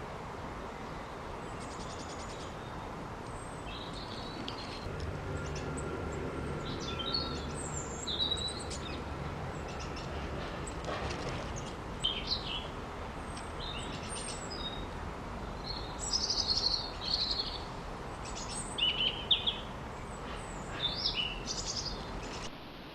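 Small garden birds chirping and singing in short, scattered high phrases over steady background noise, with a low hum rising in for several seconds about a quarter of the way in.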